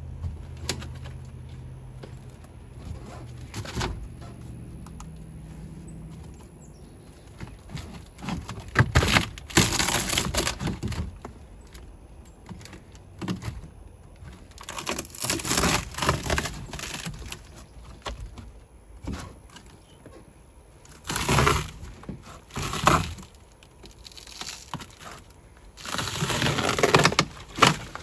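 Cracking and crunching as old material is broken and pulled out of a worn-out boat, coming in bursts of a second or two with pauses between. A faint low hum fades out in the first few seconds.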